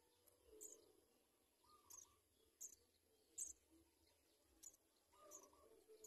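Faint bird chirps: short, very high-pitched peeps about once a second, with a few softer, lower calls in between.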